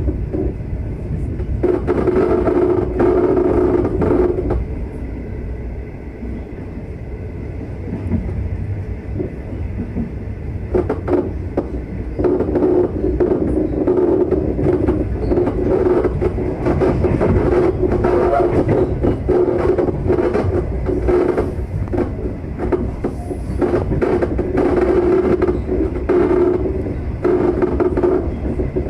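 Running noise of a locomotive-hauled passenger train under way, heard from on board: a steady rumble and hum from wheels on rail with frequent irregular clicks and rattles. It eases off from about five seconds in, then builds again from about eleven seconds in.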